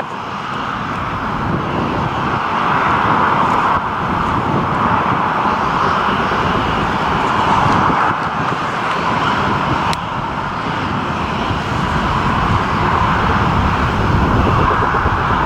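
Jet airliner engines running, a loud steady noise that holds without a break.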